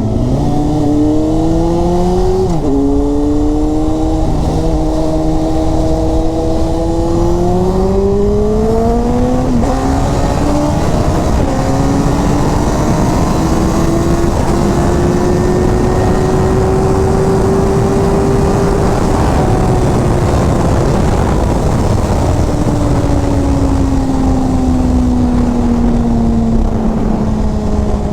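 Inline-four sport bike engine pulling hard through the gears: the revs climb with sharp drops at upshifts about 2.5 s and 10 s in, keep rising to a peak well past the middle, then fall steadily in the last third as the throttle is rolled off. Heavy wind rush throughout.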